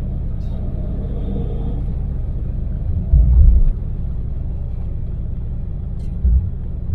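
Daewoo Damas mini van's small LPG engine and road noise making a steady low rumble while driving. Two heavy low thumps break through it, a longer one about three seconds in and a short one near the end.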